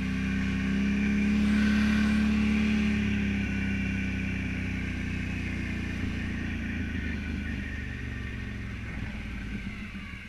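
Can-Am Renegade 1000 ATV's V-twin engine running, its note fairly steady, loudest about two seconds in and then slowly fading away.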